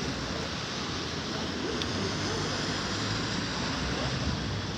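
Steady rushing outdoor noise, like wind over the microphone, with faint voices underneath.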